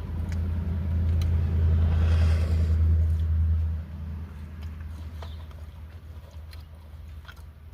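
Low vehicle rumble that builds over the first three seconds and drops away about four seconds in, with a few faint clicks.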